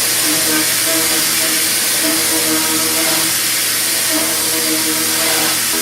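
A CNC machining centre cutting with an ISCAR LOGIQ high-feed milling cutter: a loud, steady hiss with a wavering whine from the cut.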